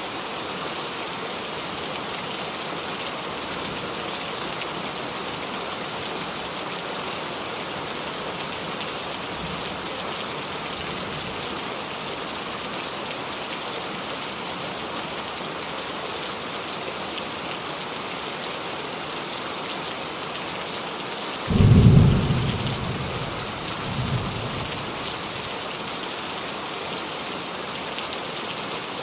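Steady rain falling on a roof, with a sudden clap of thunder about three-quarters of the way through that rumbles away, and a fainter rumble a couple of seconds after it.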